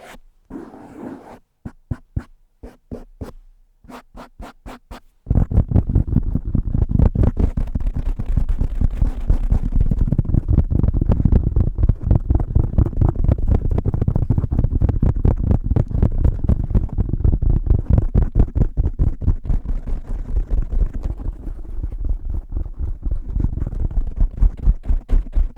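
Fingertips tapping on the cover of a Blue Yeti microphone: a few scattered taps, then about five seconds in a sudden switch to a fast, dense, loud run of low, dull taps.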